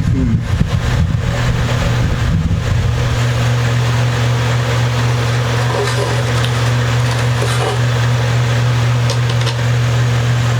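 A steady low hum, with some rustling and knocks of handling in the first couple of seconds and a few faint ticks later.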